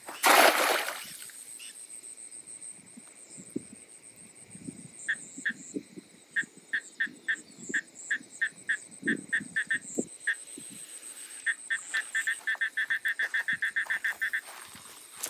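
A wild animal calling outdoors, a series of short, clipped, high notes. The calls come singly at first, then in a fast run of about seven a second near the end, over a steady high-pitched hum. A short loud burst of noise opens it.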